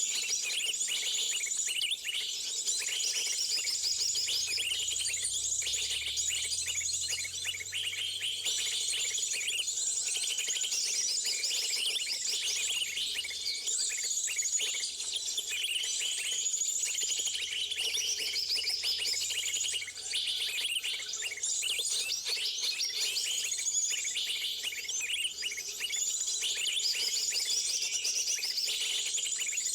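Many small birds chirping and calling at once in a dense, high-pitched chorus that goes on without a break.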